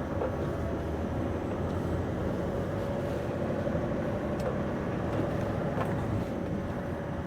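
Scania V8 lorry engine running steadily, heard from inside the cab: an even low rumble with a steady whine over it.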